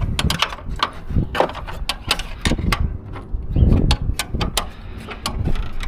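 Irregular clicks, taps and knocks of parts and tools being handled during truck cab reassembly, with a heavier thump about three and a half seconds in.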